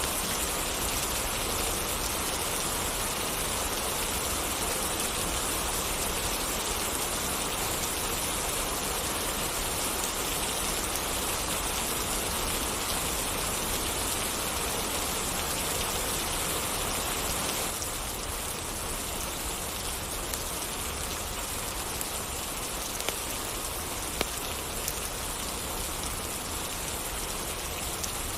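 Steady rain falling, an even hiss of drops. About two-thirds of the way through it becomes a little quieter, and a few sharp ticks stand out near the end.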